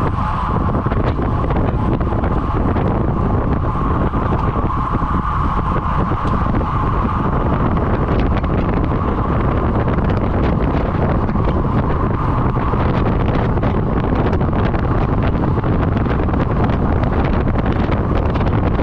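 Steady wind noise buffeting the microphone over a continuous road rumble, as from a camera moving at speed with the riders on the circuit.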